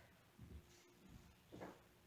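Near silence: a faint steady hum with a couple of soft, faint footsteps on the floor.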